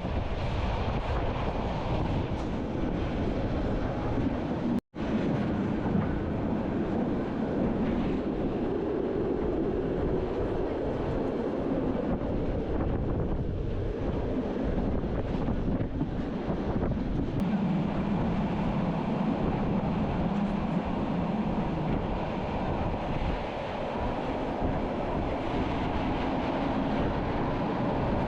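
Train running along the track heard from an open observation carriage: a steady rumble of wheels on rail mixed with wind buffeting the microphone. The sound cuts out for an instant about five seconds in.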